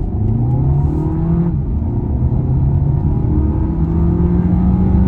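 A 1.4-litre car engine accelerating hard in sport mode, heard from inside the cabin. The engine note rises steadily, drops briefly about a second and a half in as the gearbox changes up, then climbs again.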